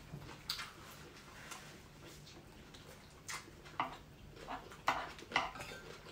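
Eating sounds close to the microphone: chewing with several short, wet mouth smacks, spaced irregularly.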